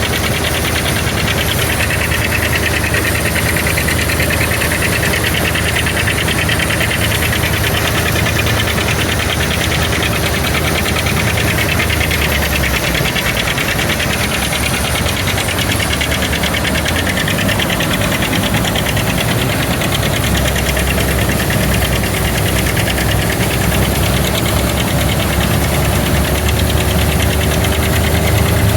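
Engine of old farm harvesting machinery running steadily under working load, with a fast, even pulsing beat. The low hum shifts a little about halfway through.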